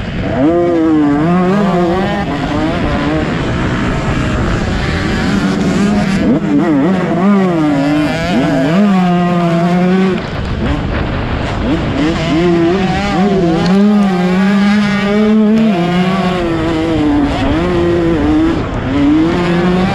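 Motocross bike engine revving hard and repeatedly, its pitch climbing, holding and dropping back as the throttle is worked and gears change.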